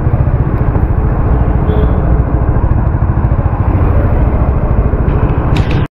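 Motorcycle engine idling with an even, rapid low beat while the bike stands still. It cuts off abruptly just before the end.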